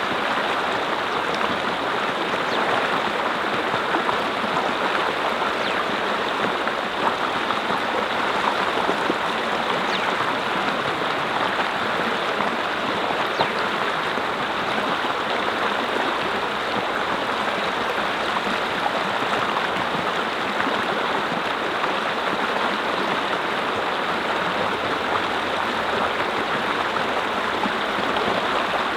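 Mountain stream flowing, a steady rushing and babbling of water that keeps an even level.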